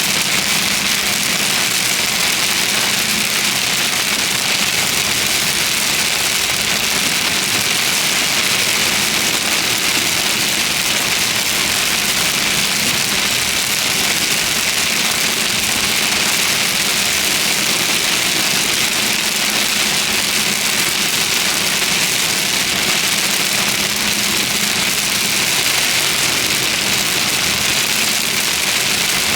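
Heavy rain hitting a vehicle in a thunderstorm, a steady unbroken hiss, with a low engine hum beneath it.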